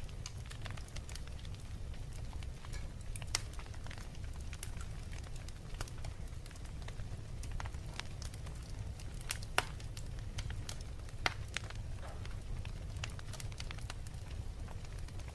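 Wood fire burning in a fireplace: scattered sharp crackles and pops over a steady low rumble, with the loudest pops about three, nine and a half, and eleven seconds in.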